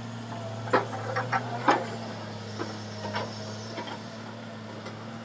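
Komatsu excavator running steadily with a low hum, with several sharp knocks and clanks in the first three seconds or so.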